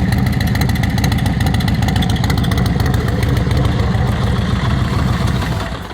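2004 Yamaha Road Star 1700's carbureted V-twin idling steadily through a Vance & Hines 2-into-1 exhaust, then shut off just before the end.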